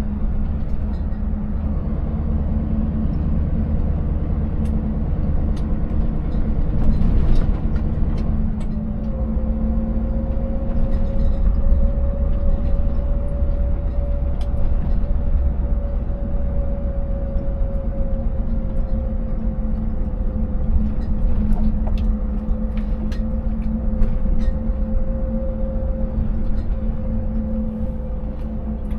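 Scania 590S truck's 16-litre V8 diesel running steadily on the move, a constant low hum with a higher steady whine coming in about nine seconds in. Scattered clicks and knocks come from the truck jolting over the broken road surface.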